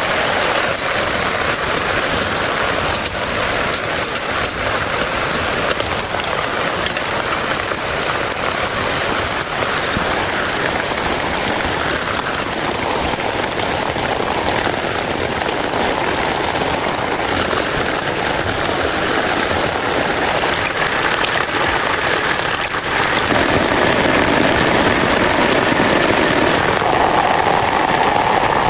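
Heavy rain pouring steadily, a dense hiss flecked with the ticks of countless drops striking a surface. It grows a little louder about 23 seconds in.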